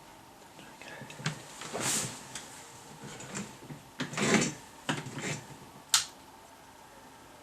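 Handling noises on a workbench: a scattering of knocks and clicks, with a scraping rustle about two seconds in and a louder one about four seconds in, and a sharp click near six seconds.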